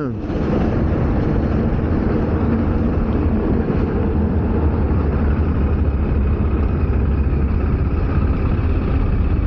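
Steady wind rush and road noise from a motorcycle moving on the road, heavy in the low end, with the engine running underneath.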